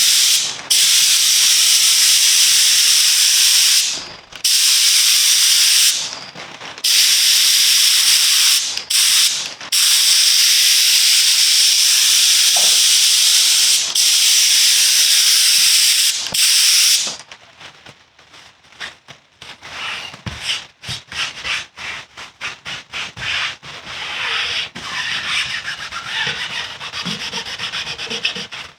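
Contact-adhesive spray gun hissing in several long bursts that start and stop sharply. Then a quieter run of quick scratchy rubbing strokes.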